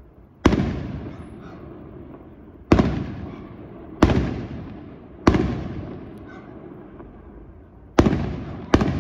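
Aerial fireworks bursting overhead: six sharp bangs at irregular gaps of one to three seconds, the last two close together near the end. Each bang trails off in an echo that lasts about a second.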